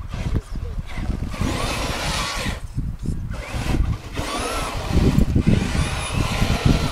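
Traxxas Stampede RC truck's electric motor whining up in three bursts of throttle, the pitch rising and falling with each, over a low rumble.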